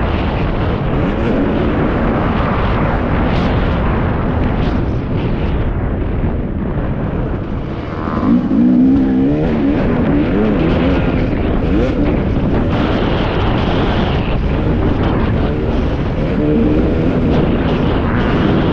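Husqvarna TC 250 two-stroke motocross engine revving up and down as the bike is ridden round the track, its pitch climbing sharply about eight seconds in, over a heavy rush of wind and riding noise.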